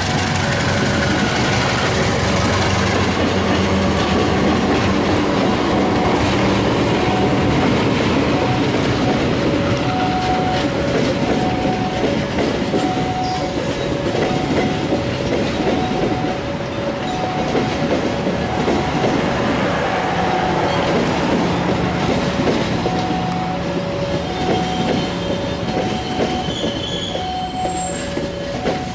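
Train being shunted through a set of points, its wheels clattering over the rail joints and squealing, under a steady low engine hum. A two-note beep repeats at even intervals over it.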